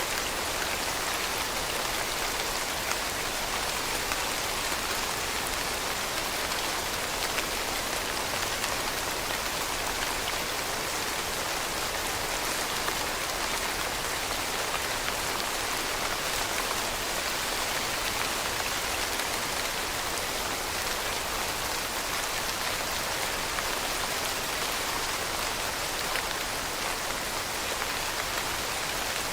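Steady rain falling on a surface, an even hiss of many drops with fine patter and no let-up.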